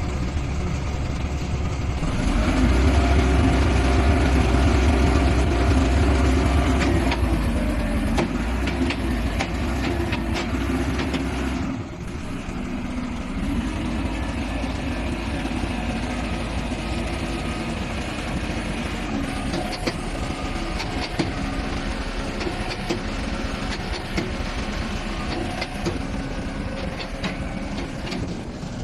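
Skid steer engine running while it drives a concrete mixer bucket attachment, with scattered clicks and rattles. It is loudest in the first several seconds, dips briefly about twelve seconds in, then runs on at a steadier, slightly lower level.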